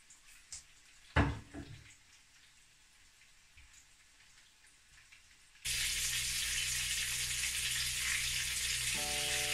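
A clatter about a second in as a plate is set down on the counter. About halfway through, a loud steady sizzle of battered mushrooms deep-frying in hot oil in a frying pan starts abruptly. Faint music notes come in near the end.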